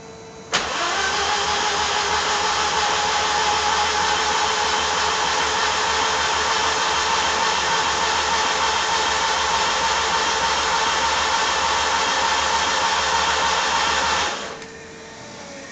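Starter motor cranking a 2008cc stroker four-cylinder with the spark plugs out, to prime it with oil. It engages with a sharp click and spins the engine in an even, steady whir with no compression strokes, then cuts off abruptly after about fourteen seconds. A fuel pump hums steadily underneath.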